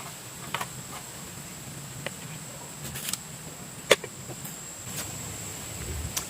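A steady, high-pitched insect drone over a low hiss, broken by scattered sharp clicks and snaps, the loudest about four seconds in.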